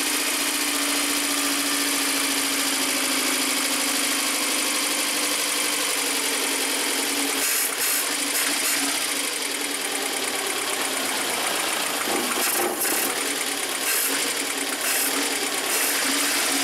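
VAZ-2110's carburetted four-cylinder engine running with its air filter off, steady at first, then uneven, its speed wavering, with several short sharp disturbances in the second half. The mechanics take the rough running for fuel starvation, which they suspect comes from clogged fuel jets in the carburettor.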